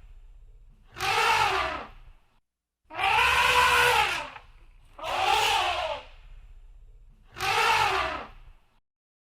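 Elephant trumpeting: four loud calls of about a second each, evenly spaced, each rising and then falling in pitch.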